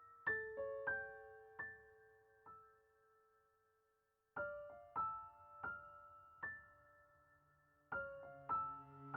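Background piano music: single soft notes struck one after another, each ringing and fading, with a pause of about a second before the notes resume.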